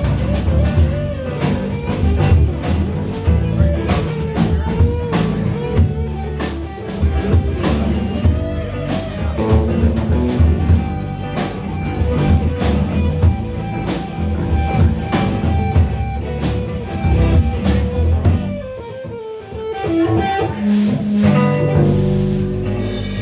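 Live band playing an instrumental passage with guitar and drum kit, no singing. About nineteen seconds in the drums briefly drop out and the band holds longer notes.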